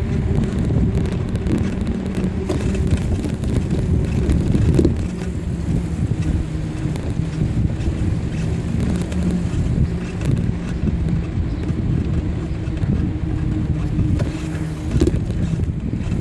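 Steady wind buffeting the microphone and low rumble of riding on a bicycle, with a faint hum underneath.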